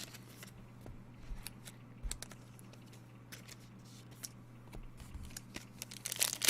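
Trading cards and their packaging being handled at a table: scattered light clicks and rustles over a steady low hum, with louder wrapper crinkling starting near the end.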